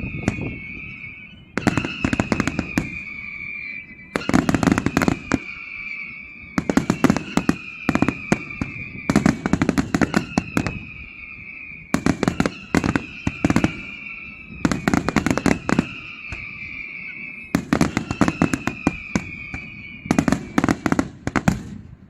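Daytime fireworks going off in rapid volleys of sharp bangs and crackles, one volley about every two seconds. Each volley carries a whistle that slowly falls in pitch. The firing stops near the end.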